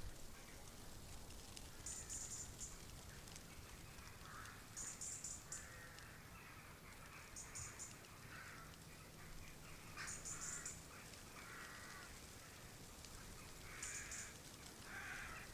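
Faint bird calls: harsh, rough calls come every second or so, and a short, high-pitched chirping trill repeats about every two to three seconds.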